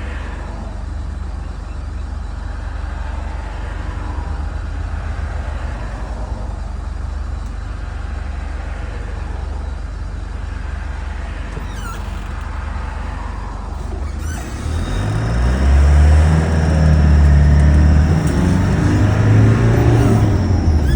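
Turbocharged engine of a manual four-wheel-drive vehicle idling steadily, then revving up and growing louder as it pulls away in first gear about two-thirds of the way in.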